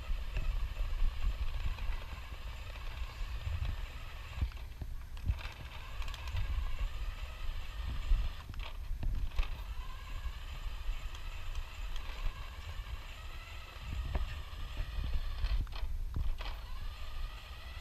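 Electric RC car motor whining in bursts of throttle as its wheels spin without traction, cutting out briefly a few times, over a low rumble.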